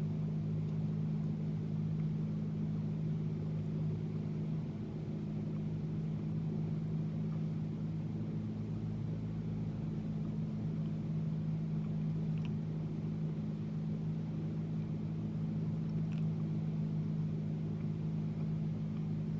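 Steady low mechanical hum, like an engine or motor running at a constant speed, with a couple of faint ticks.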